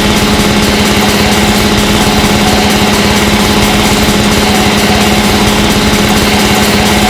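Harsh noise wall from a noisecore track: a dense, unchanging wash of static over a steady low hum, with no drums, vocals or breaks.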